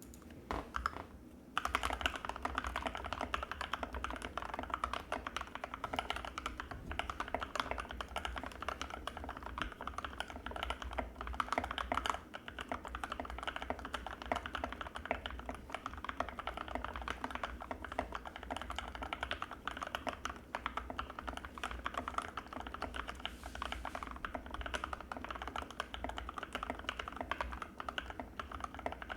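Anne Pro 2 mechanical keyboard with linear Gateron Red switches being typed on fast and without a break, a dense patter of keystrokes. A few scattered strokes come before the steady typing starts about a second and a half in.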